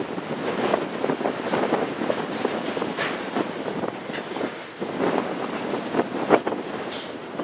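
Freight train cars rolling past, their wheels clacking irregularly over rail joints amid a steady rumble.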